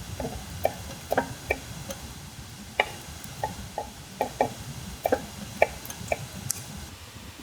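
Kitchen knife chopping on a cutting board: about fifteen short, irregular wooden knocks.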